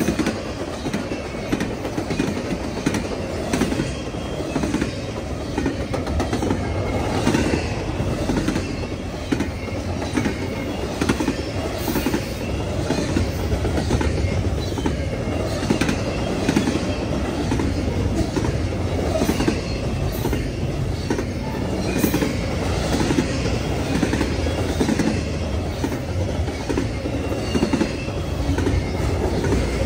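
Long CN intermodal freight train's cars rolling steadily past, wheels clicking repeatedly over the rail joints.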